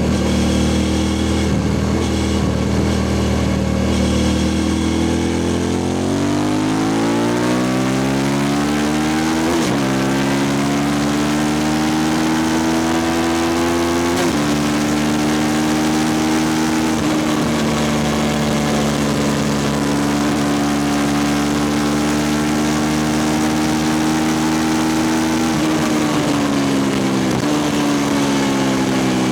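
2003 Suzuki SV650S V-twin through a Lextek exhaust with no dB killer, the bike under way. The engine note climbs, drops sharply twice a few seconds apart and climbs again after each drop, as at upshifts. It then holds steady for a long stretch and steps down twice near the end.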